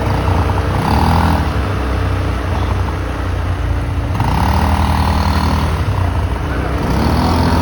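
ATV engine running while the quad is ridden. Its pitch rises twice as it speeds up, about a second in and again about four seconds in.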